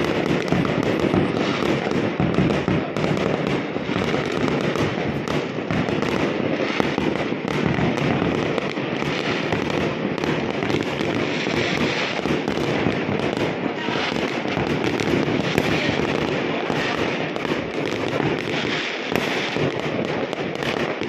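Many aerial fireworks going off at once in a continuous barrage: overlapping bangs and crackles with no pause.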